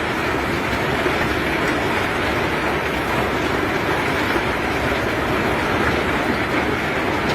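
Heavy cargo-handling machinery working: a steady, unbroken rumble and clatter.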